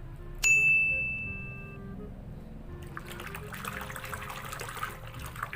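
A bright chime rings out sharply about half a second in and fades over a second or so, over soft background music. From about three seconds in comes a crackling rustle.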